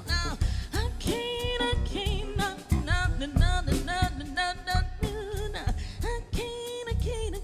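Live soul band playing with drums, bass, guitars and keys: a melodic lead line that bends in pitch over a steady beat, as the song heads into its fade-out.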